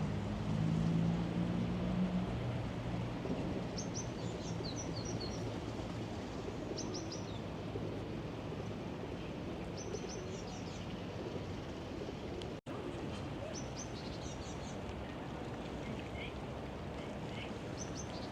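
Small birds chirping in short clusters every few seconds over a steady hum of city background noise, with a low engine-like hum in the first few seconds. All sound cuts out for an instant about two-thirds of the way through.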